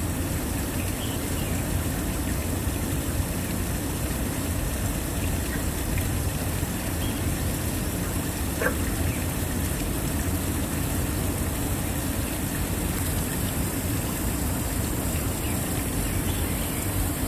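Waterfall's steady rush of falling water, deep and unbroken, with one brief sharp sound about halfway through.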